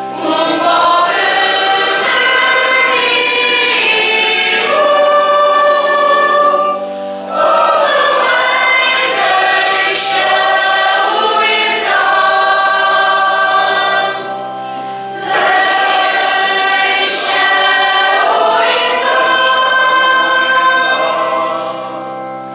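Church choir singing in sustained phrases, with short breaths between phrases about seven and fifteen seconds in.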